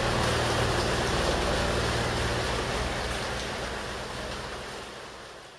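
Heavy rain falling on a flooded patio, a dense steady hiss with a low steady rumble underneath, fading out over the last couple of seconds.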